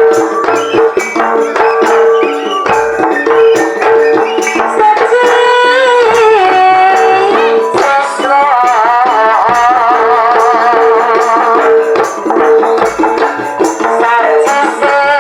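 Live Javanese jaranan ensemble music: drums, jingling rattle percussion and a repeated struck tone keep a steady rhythm, and a wavering melody comes in about five seconds in.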